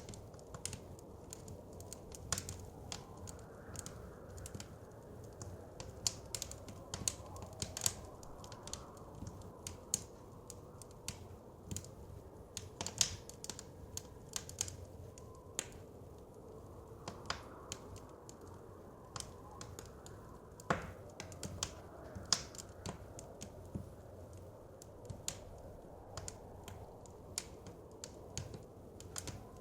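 Wood fire crackling, with irregular sharp pops and snaps, over a low, steady rush of soft winter wind that swells and eases.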